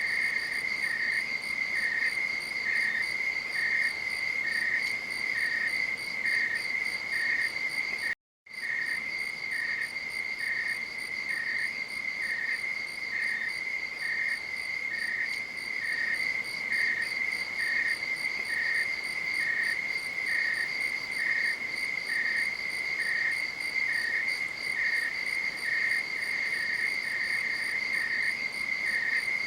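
Night insects, crickets by their sound: a continuous high trill with a second insect chirping steadily about twice a second beneath it. The sound cuts to silence for about half a second some eight seconds in.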